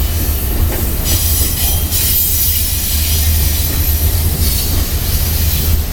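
A long train rolling slowly past close by: a steady low rumble of the cars with continuous wheel-on-rail noise.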